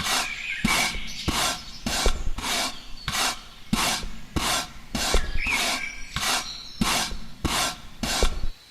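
Rhythmic rasping strokes, about one and a half a second, like a tool being drawn back and forth over a rough surface; they stop near the end.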